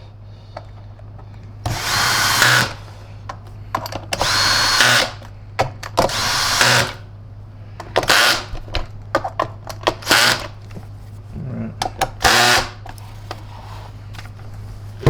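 Cordless drill/driver running in about six short bursts of a second or less, driving the screws that hold down a canister vacuum's aluminium-alloy lid, with the clutch set low.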